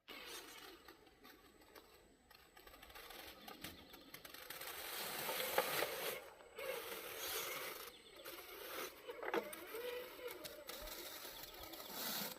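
Radio-controlled truck's electric motor and drivetrain whining as it crawls, swelling and easing in loudness with the throttle.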